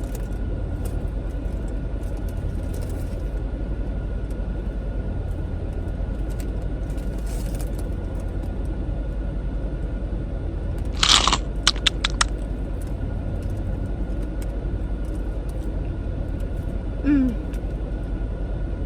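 A steady low rumble, with one loud crunch about eleven seconds in followed by a few sharp clicks, from food being handled or bitten. A short low vocal "mm" comes near the end.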